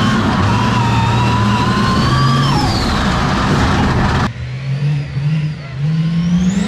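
Monster truck engine revving hard, with a whine that rises and then falls. About four seconds in the sound cuts abruptly to quieter engine revving that climbs in surges, with a high whine rising near the end.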